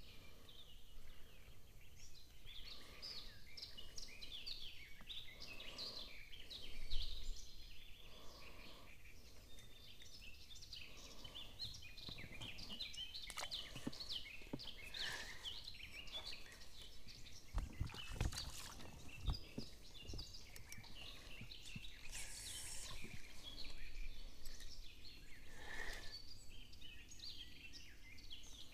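Songbirds chirping and singing steadily around the lake, with a few low knocks in between.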